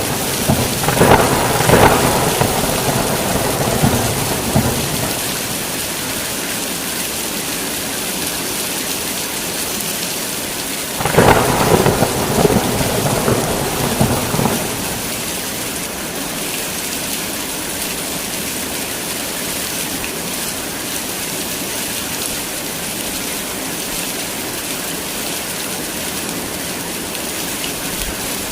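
Heavy rain falling steadily, with thunder rumbling twice: once near the start and again about eleven seconds in, each peal lasting a few seconds.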